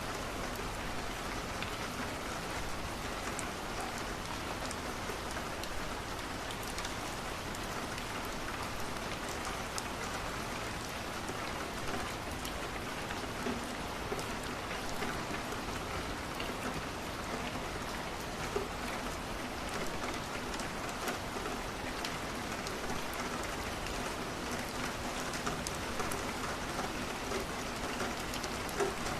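Steady rain on a window mixed with wood crackling in a fireplace: an even hiss with small pops and ticks scattered throughout.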